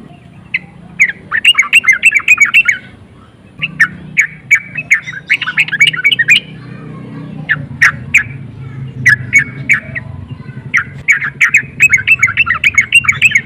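Sooty-headed bulbul (trucukan) singing in loud bursts of rapid, chattering notes, four phrases of about two seconds each with short gaps between. This is an excited song of the kind played as a lure to provoke other bulbuls.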